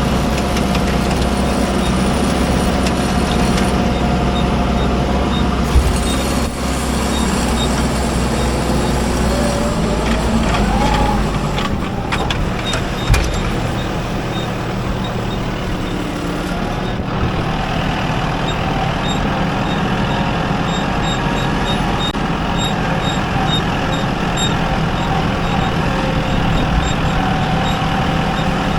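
Heavy vehicle engine running steadily, with a couple of brief knocks; its deepest rumble drops away about twelve seconds in.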